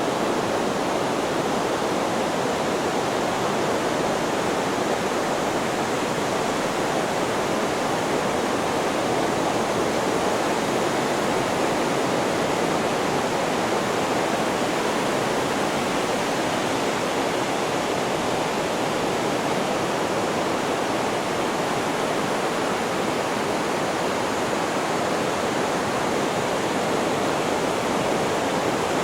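Steady, unvarying rushing noise of a white-noise sleep track, with no separate wave swells standing out.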